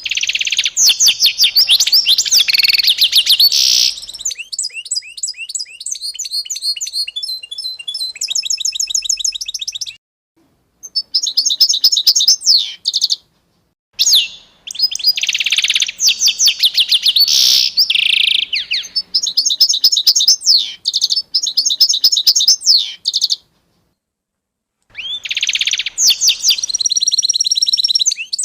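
Small songbirds singing: fast, high-pitched chirps and trills of rapidly repeated notes, in several bursts broken by short, abrupt dead silences.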